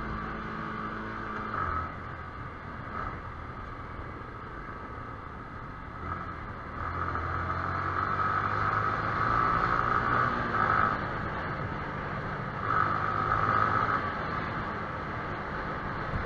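Yamaha YZF-R15 motorcycle running on the road, engine and road noise swelling louder in the second half.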